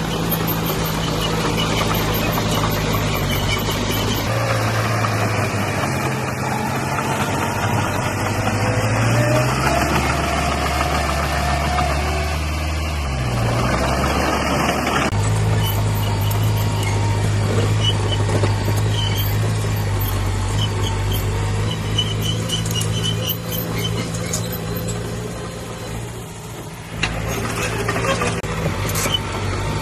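Diesel engine of a small bulldozer running under load, its pitch shifting as the load changes, with a sudden change in the sound about halfway through.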